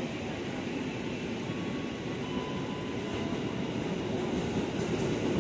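KA Bima passenger train running straight through the station without stopping, its wheels rumbling steadily on the rails and growing slightly louder near the end.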